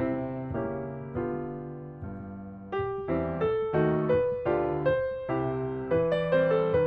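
Background piano music: gentle chords and melody notes struck every half second or so, each fading after its attack.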